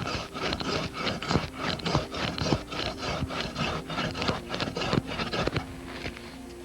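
Hand pruning saw cutting through a black walnut branch in quick back-and-forth strokes, about three to four a second, stopping about five and a half seconds in.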